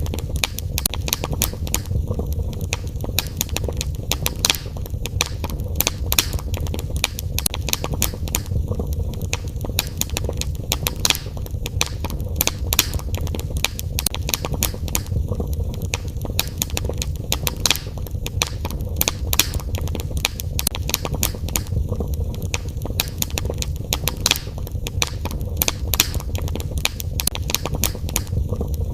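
Wood fire in a fireplace crackling, with frequent, irregular sharp pops and snaps over a steady low rumble.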